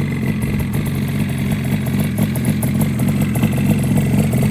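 Yamaha RD400's air-cooled two-stroke parallel twin idling steadily, with a fast, even exhaust pulse.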